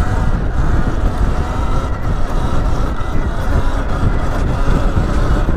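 Wind buffeting the microphone with a steady low rumble while riding a Sur Ron Light Bee X electric dirt bike over rough ground.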